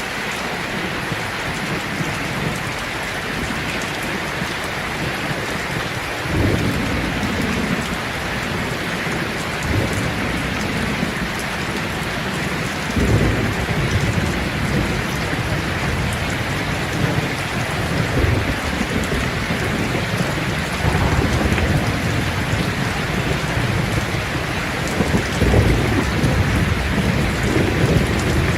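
Steady rain with rolling thunder. Low rumbles rise about six seconds in and again around thirteen seconds, then recur through the second half.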